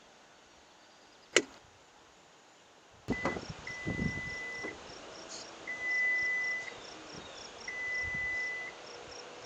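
A sharp click, then a high electronic beep repeating: three one-second tones about two seconds apart, with a faint quick ticking underneath.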